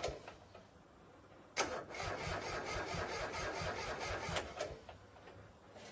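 Old diesel tractor engine being cranked over for a start attempt: it turns over with a rhythmic churning for about three seconds, starting abruptly, then stops.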